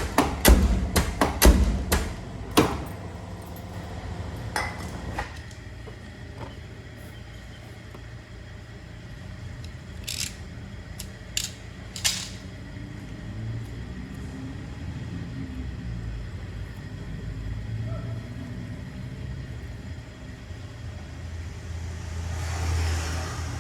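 Hands working a car door latch: a quick run of sharp metallic clicks and knocks in the first few seconds, a few more clicks a little later, then three short bursts of hiss like lubricant spray around the middle, over a low rumble.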